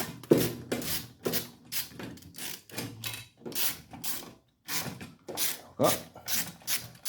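Short rasping strokes, about two a second, as a hand tool works a long bolt loose from a Briggs & Stratton lawnmower engine.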